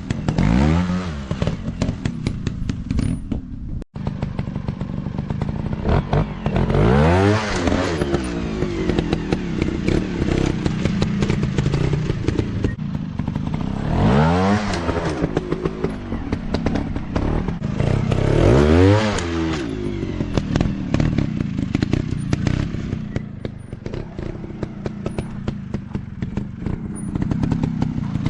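Off-road dirt bike engines running and revving hard several times, each rev climbing and then falling back in pitch, with rattling and clatter between the revs.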